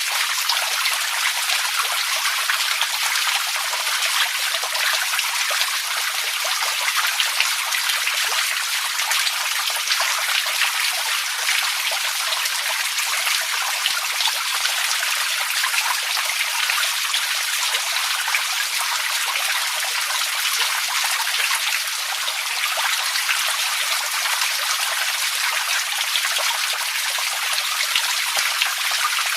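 Running water trickling and splashing steadily, thick with small droplet ticks and with little low rumble.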